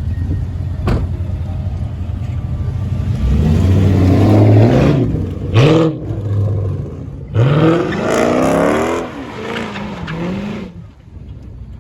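A car engine revving several times. Its pitch climbs about a third of the way in. Two short, sharp blips follow, then a longer run of revs that stops abruptly near the end.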